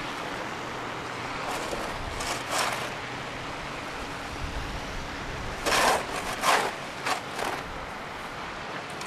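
Steady road noise from passing traffic along a highway, with a low swell of a vehicle going by about halfway through. A few short noisy bursts come about two seconds in and again, louder, near the end.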